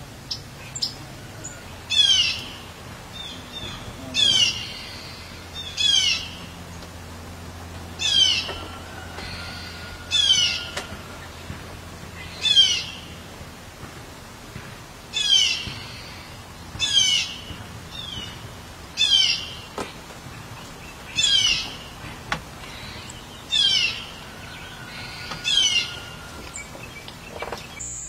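A songbird calling over and over, about a dozen times, roughly every two seconds; each call is a short, quick run of high, down-slurred notes.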